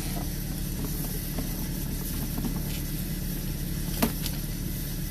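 An engine idling steadily with a low, even hum, under a faint hiss and small scattered ticks; a single sharp click about four seconds in.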